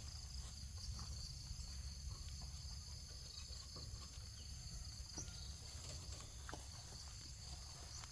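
Steady high-pitched insect chorus from crickets or cicadas, over a low steady rumble, with scattered faint clicks.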